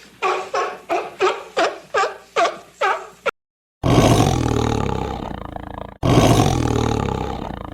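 Farm animal calls: a quick run of about eight short, pitched calls, then after a brief gap two long, low calls, each fading away over about two seconds.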